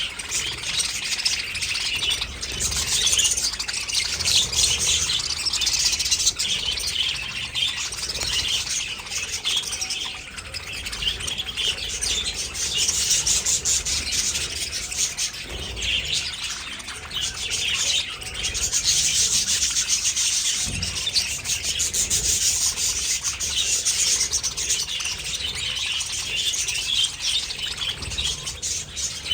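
A flock of budgerigars chattering and chirping continuously, many birds calling over one another in a dense, high-pitched warble.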